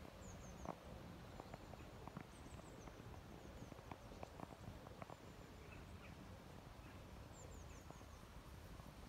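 Quiet lakeside ambience: faint high bird chirps in short descending runs of a few notes, heard about three times, with scattered soft clicks in the first half.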